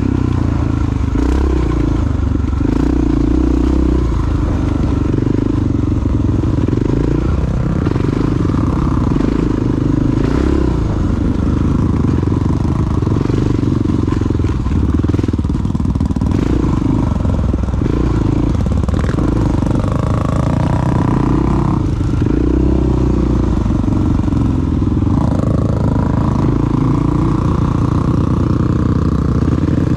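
Big single-cylinder four-stroke dual sport motorcycle engine under way, running loud and steady, its note rising and falling as the throttle opens and closes.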